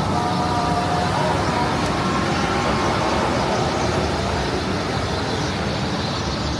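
Busy street noise of traffic passing and running, a steady mix of engines and tyres with indistinct voices in the background.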